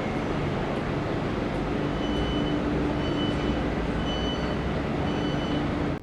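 Train running with a steady rumble, while a high electronic warning beep sounds about once a second.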